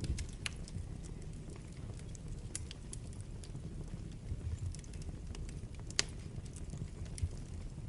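Wood fire burning in a fireplace: a steady low rumble of the flames with irregular sharp crackles and pops. The loudest pop comes about six seconds in.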